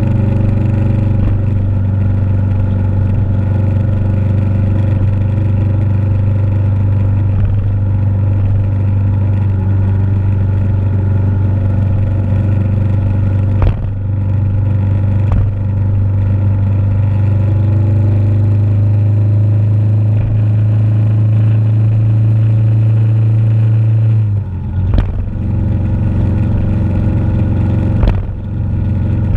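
Motorcycle engine running steadily at cruising speed, mixed with wind and road noise. About three-quarters of the way through the engine note drops, and a few knocks follow near the end.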